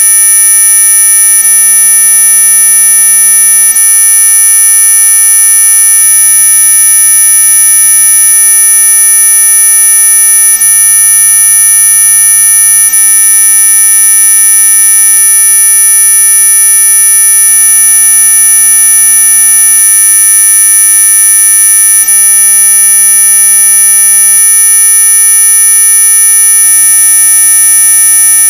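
Electronically generated anti-mosquito repellent tone: a loud, steady whine of several fixed high pitches over fainter lower tones, held without change.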